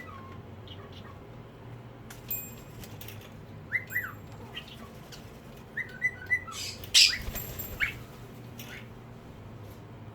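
Alexandrine parakeet giving short chirping calls in small clusters, with one louder, harsher squawk about seven seconds in.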